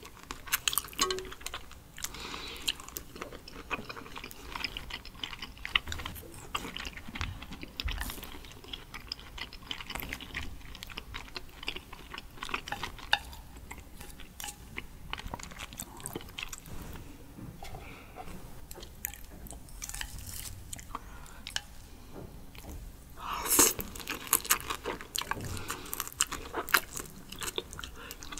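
A person chewing raw seafood, sea urchin roe and sweet shrimp: a steady run of small mouth clicks and smacks, with a louder stretch of chewing about three-quarters of the way through.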